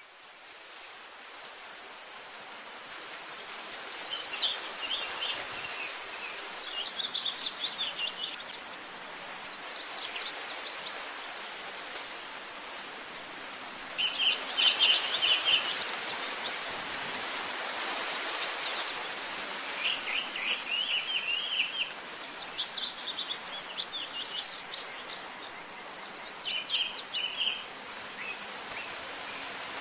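Small birds chirping in short runs of quick high notes every few seconds over a steady outdoor hiss.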